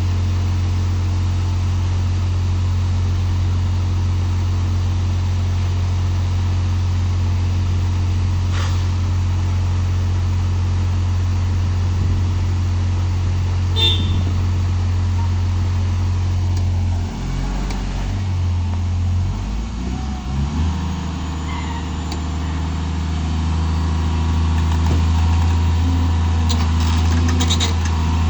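An engine running steadily with a low, even hum. About two-thirds of the way through the hum falters and shifts for a few seconds, then settles into a steady run again.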